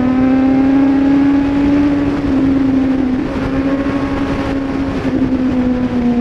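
Car engine running at a steady, fairly high speed. Its note rises slightly over the first couple of seconds, then eases down a little.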